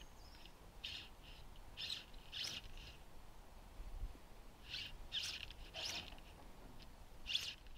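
Faint bird calls: short high chirps, a few in the first three seconds, then a pause, then more from about five seconds in.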